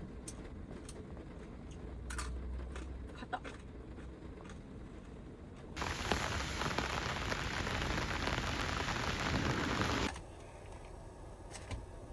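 Rain on a Toyota HiAce van heard from inside the cabin: a low steady patter with scattered drips and clicks. About six seconds in, a much louder hiss of heavy downpour comes in suddenly, lasts about four seconds and cuts off as suddenly.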